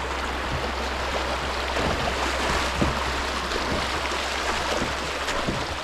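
Creek water rushing steadily through a shallow rapid around a kayak, with a few faint knocks.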